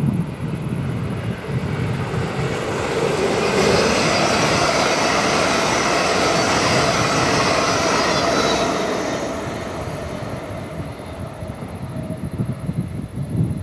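A passing train, its rolling wheel-and-rail noise building to its loudest from about four seconds in and fading away after about nine seconds.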